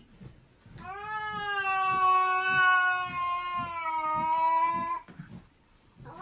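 A cat yowling in one long drawn-out call of about four seconds, rising as it starts, then sinking slowly lower before it breaks off.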